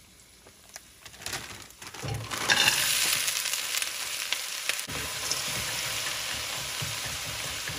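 Frozen cut okra, still frosted with ice, tipped into hot oil in a wok: after a couple of quiet seconds a sudden loud burst of sizzling, then steady frying sizzle as a spatula stirs it. The ice on the frozen okra hitting the hot oil makes the sizzle loud.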